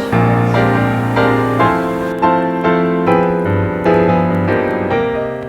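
Background piano music: a steady run of notes, one every half second or so.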